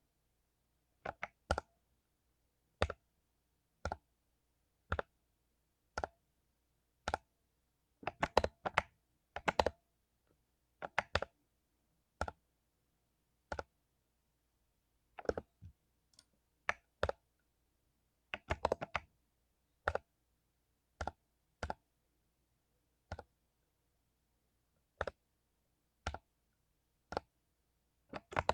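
Mechanical keyboard with lubed Cherry MX Silver linear switches, keys pressed one at a time about once a second, with two short quick runs of several keystrokes.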